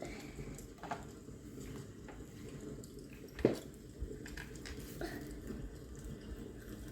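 Eating sounds: wet chewing with small clicks and smacks, with one sharper smack about three and a half seconds in.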